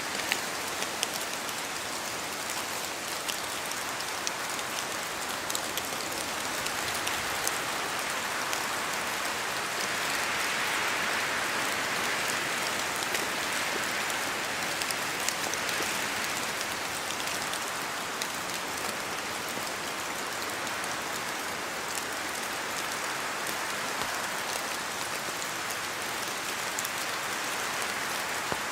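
Steady rain falling in a spruce forest, with many scattered sharp taps of drops falling from the trees. The rushing swells up and eases again around the middle, as wind blows through the spruces.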